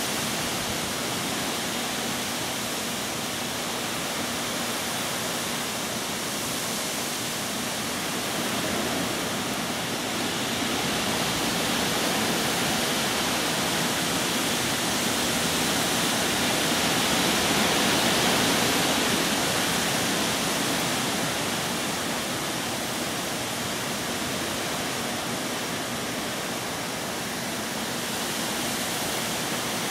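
Heavy rain and wind of a hurricane: a steady rushing that swells somewhat around the middle and eases again.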